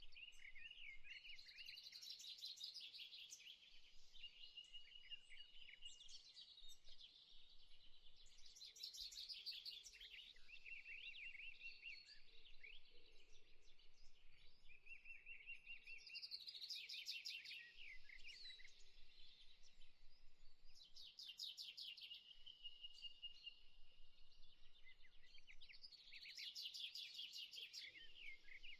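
Faint birdsong: several birds chirping and whistling, with bursts of rapid trills every five seconds or so.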